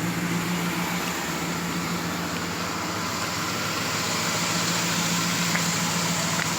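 1996 Dodge Ram 1500's V8 idling steadily through a cat-back dual exhaust with a Flowmaster Flow FX muffler, left running to warm up on a cold day.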